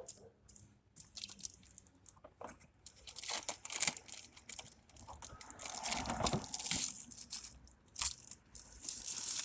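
Packaging of a new car headlamp assembly being handled and unwrapped: irregular crinkling, crunching and tearing, busiest in the second half.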